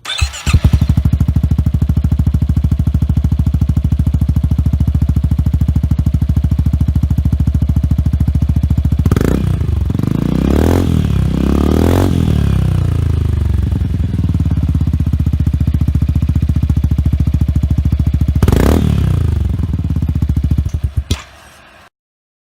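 Yamaha X-Max 300 scooter's single-cylinder four-stroke engine, breathing through a ROSSO full-system aftermarket exhaust, starting up and idling with an even pulsing beat. It is revved in four short throttle blips, three close together and one later, then switched off.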